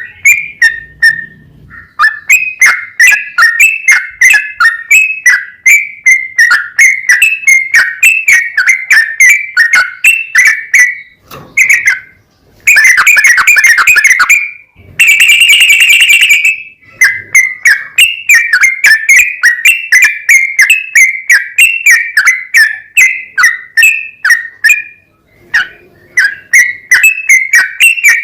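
Yellow-vented bulbul singing a long, fast run of short chirping notes, several a second, broken by brief pauses. About halfway through come two loud, dense, harsher bursts.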